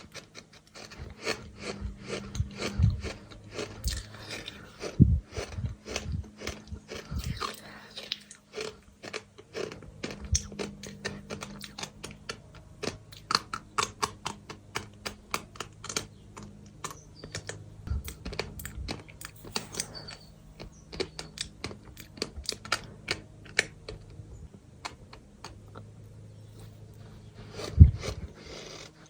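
Chunks of dry and damp bird sand crunching and crumbling in a dense run of quick, gritty crackles. A few heavier thuds come in the first few seconds and again about a second before the end.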